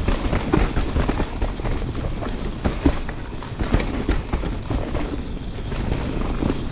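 Canyon Spectral 29 CFR full-suspension mountain bike riding fast down a dirt trail: tyre noise over roots and rocks, with frequent rattling clicks and knocks from the bike.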